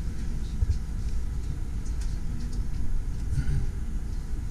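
Steady low rumble of a passenger train carriage rolling slowly along the track, heard from inside the carriage.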